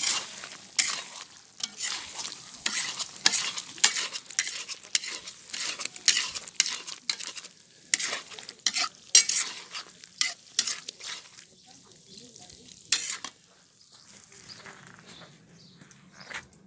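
Food frying in a kazan (cauldron) while being stirred with a utensil. Irregular scraping strokes run for about the first thirteen seconds, then it goes much quieter.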